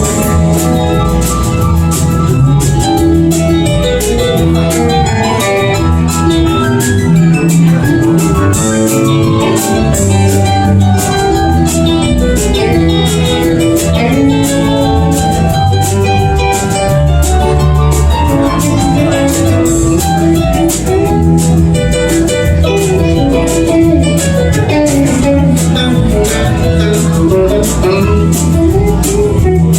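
Live band playing an instrumental break: guitar lines over bass and drums, with cymbals keeping a steady beat.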